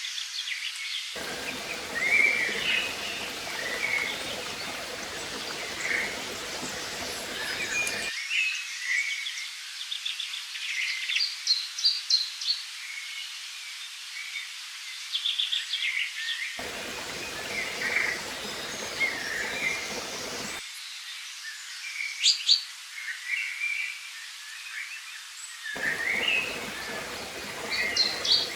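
Many songbirds chirping and singing over the steady rushing of flowing water. A lower rumble of water comes in about a second in, again midway, and near the end.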